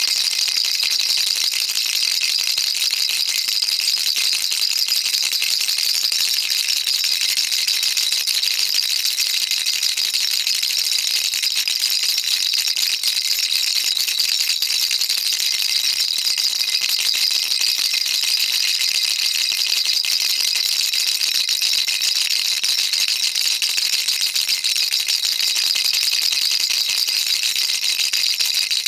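Baby rattle shaken continuously: a dense, even, high-pitched rattle of small beads clicking, with no pauses.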